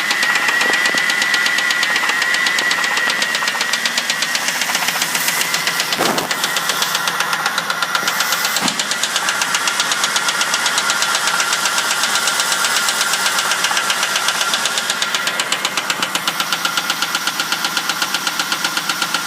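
A 2000 Ford Crown Victoria's 4.6-litre V8 running with a loud, fast, even ticking, with a steady high whine over it. The owner calls it an engine knock and is at a loss as to its cause.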